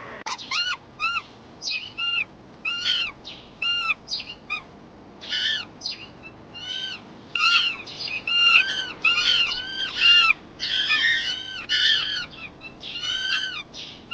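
A long run of short, high-pitched animal calls, each rising and falling in pitch, in irregular bursts that come thicker and louder from about five seconds in.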